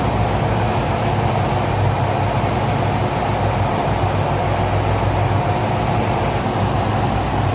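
Ferrari Mondial's V8 engine idling steadily at operating temperature, with the electric radiator fan running, switched on automatically by its thermostatic switch.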